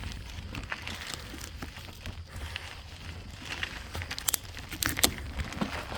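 Bicycle rolling down a rough dirt trail: tyres crunching over loose ground and the bike rattling, with scattered sharp clicks, two louder ones about four and five seconds in. A low wind rumble on the microphone runs underneath.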